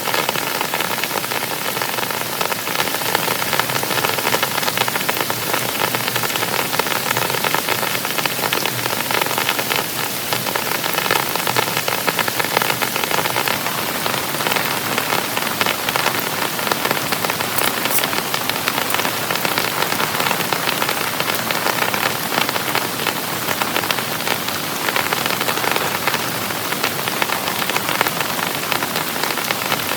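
Heavy rain falling steadily on a surface.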